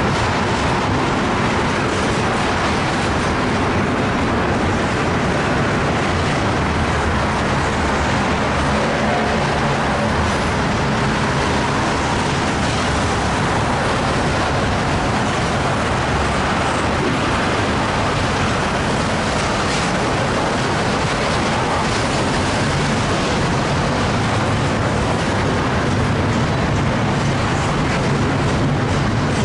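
Union Pacific double-stack intermodal train's container well cars rolling steadily past, a continuous rumble of steel wheels on rail.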